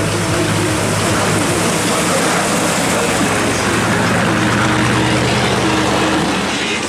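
A car engine running, with music playing underneath.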